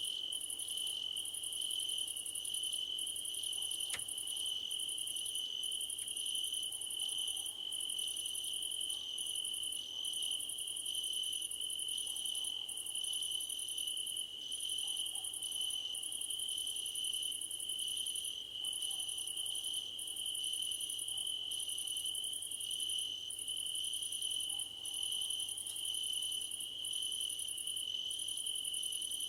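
Chorus of crickets: one steady, unbroken high trill, with a second, higher-pitched chirping layered over it that breaks off and resumes about once a second.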